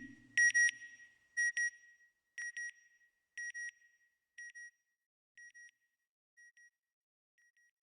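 Electronic beep sound effect: a quick double beep repeating about once a second and fading away pair by pair over several seconds, just after a deep whoosh dies out.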